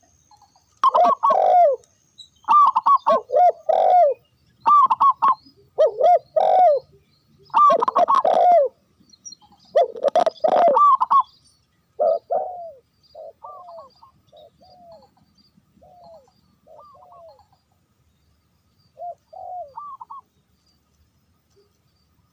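Doves cooing in repeated short phrases, loud and close for the first half, then fainter and more spaced out.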